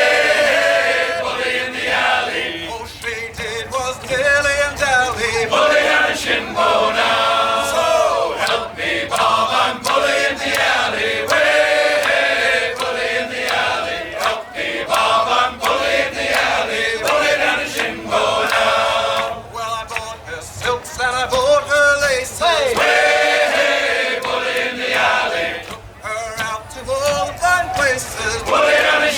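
A group of men singing together as a choir, unaccompanied or nearly so, with steady sustained sung lines.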